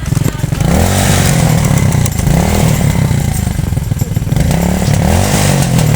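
Small motorcycle engine revving up and falling back several times in a row, its pitch rising and dropping with each burst of throttle.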